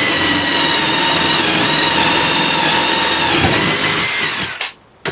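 Electric drill running flat out, boring a hole: a steady motor whine that sags slightly in pitch about three seconds in, then stops shortly before the end.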